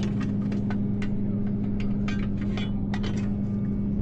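Steady engine hum of a running tow truck, with many light clicks and knocks scattered over it.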